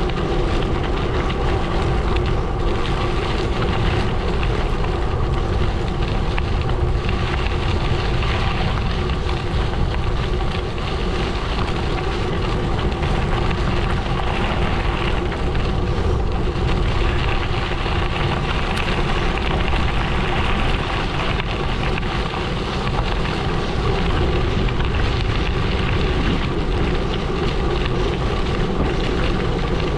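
Gravel bike tyres rolling steadily over a gravel road, a continuous crunching rumble with a faint steady hum, and wind buffeting the microphone.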